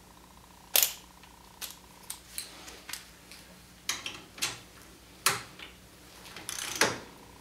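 Hand tools clicking and clanking on metal as a suspension bolt is worked on: a series of sharp, irregular clicks and knocks, the loudest about a second in and near the end.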